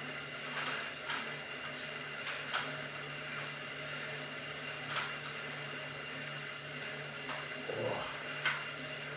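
A handful of short, sharp clicks, typical of buttons being pressed on an exercise bike's console to set a 30-minute session, over a steady low hum and hiss.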